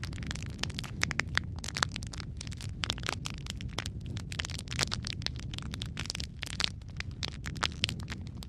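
Fireplace fire crackling: many sharp, irregular pops and snaps over a steady low rumble of burning.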